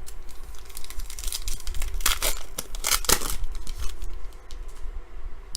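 Wrapper of a Panini Prestige basketball card pack being torn open and crinkled, in several quick rips between about one and three and a half seconds in.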